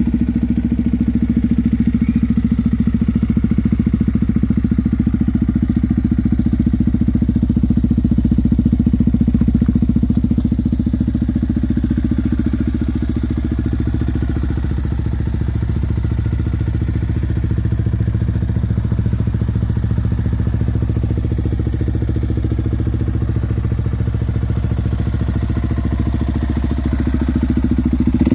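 Yamaha WR155's single-cylinder engine idling steadily through an aftermarket exhaust.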